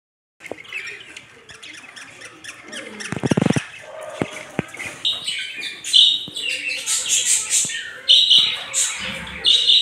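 Birds chirping and squawking, with several sharp clicks in between.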